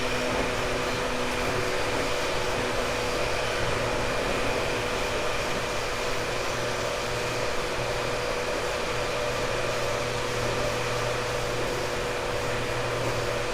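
Running sound inside a JR 189 series electric multiple unit motor car: the MT54 traction motors and gearing hum at a steady pitch over the rumble of wheels on track, at a constant speed.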